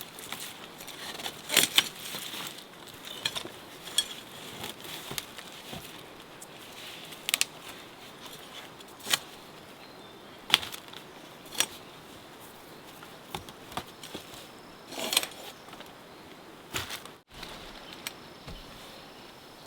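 Sharp clicks and knocks at irregular intervals, one every second or two, over a faint steady high hum.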